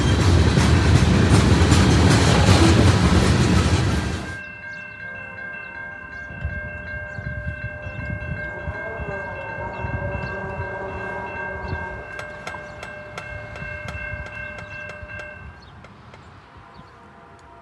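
Freight train of tank cars rolling past close by with loud rumble and wheel noise, cut off abruptly about four seconds in. Then a distant locomotive horn sounds one long chord of several steady notes for about eleven seconds, with scattered light clicks.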